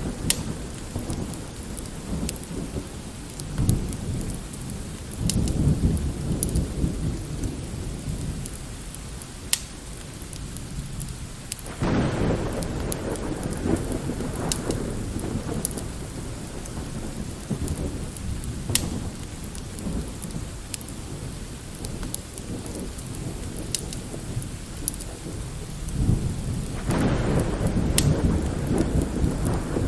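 Steady light rain with distant rolling thunder, three long low rumbles swelling and fading, over the sharp snapping crackles of a wood fire.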